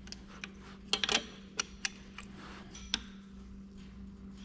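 Sharp, irregular metal clicks from a socket ratchet tightening the bolts on the engine's rear seal housing, with a small cluster of clicks about a second in.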